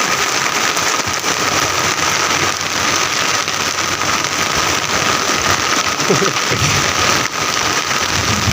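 Heavy tropical rain pouring down steadily, a dense even hiss, with a faint steady high tone underneath.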